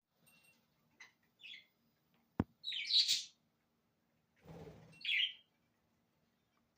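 Pet budgerigars chirping in short calls, the loudest about three seconds in and another about five seconds in. A sharp click comes just before the loudest chirp, and a brief low noise just before the last one.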